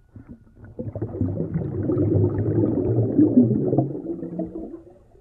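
Underwater bubbling and gurgling water sound, starting about a second in and fading out near the end.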